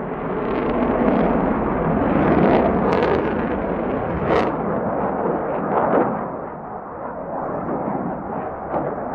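Fighter jet engine roar: a loud, rough, continuous rumble that swells and eases, with a few sharper cracks in it.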